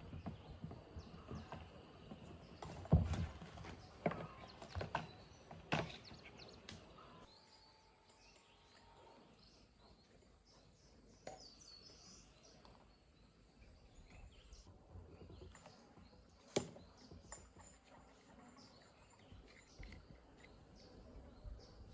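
Scattered sharp knocks and clicks, several between three and six seconds in and one more past the middle, over a faint outdoor background.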